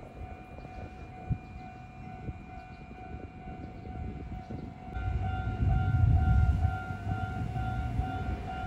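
Keihan electric train sounds in a rail yard: a steady high whine throughout. About five seconds in, a low rumble builds and a second, higher tone begins pulsing on and off.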